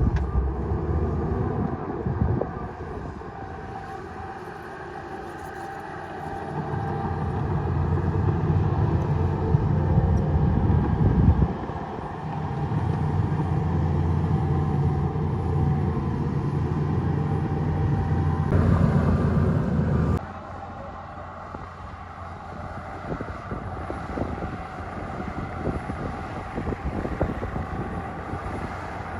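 Bulldozer's diesel engine working under load, its note swelling and easing several times as it pushes, then dropping off suddenly about twenty seconds in to a lower running note.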